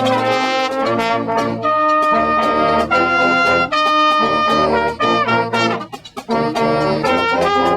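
Brass music, trombones and trumpets playing a tune over a steady beat, with a brief drop about six seconds in.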